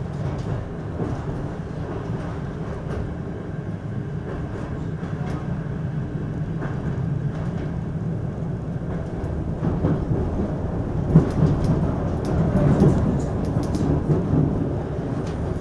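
Low rumble of a passenger coach rolling along the track, heard from inside the car, with scattered clicks and clatter from the wheels on the rails. It grows louder and busier about ten seconds in.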